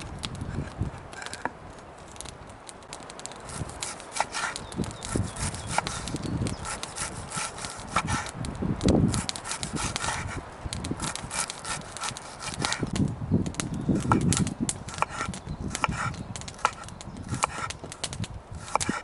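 Irregular scraping and rubbing with many short sharp clicks, and heavier scrapes about halfway through and again later.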